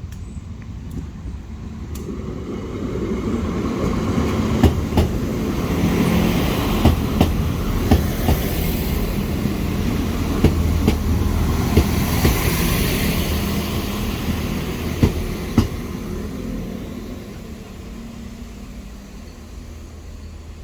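A diesel multiple-unit passenger train passing through a level crossing. Its rumble builds, holds for several seconds and fades away, with the wheels clicking over rail joints, often in pairs.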